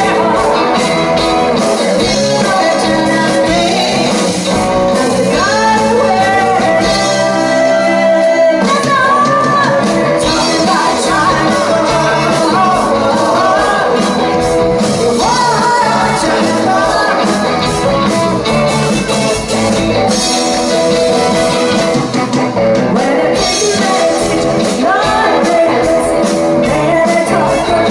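Rock band playing a song with sung vocals over electric guitar.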